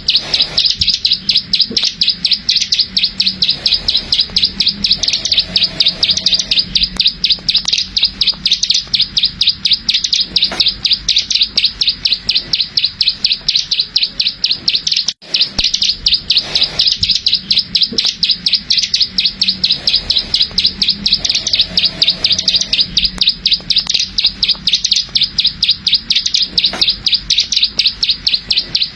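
A plain prinia (ciblek sawah) singing its rapid 'klik-klik' song: a loud, unbroken train of short, high clicking notes, many a second. The run drops out for an instant about halfway through.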